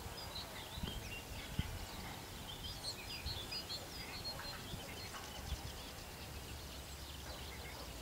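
Small birds chirping: short high notes repeated every half second or so, with more varied twittering about three seconds in, over a faint low outdoor rumble.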